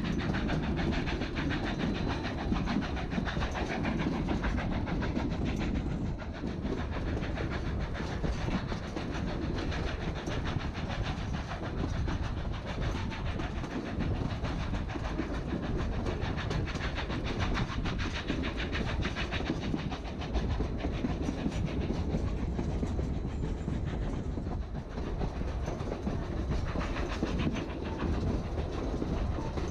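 Narrow-gauge passenger train heard on board while under way: a steady rumble and clatter of the coach's wheels running over the rails.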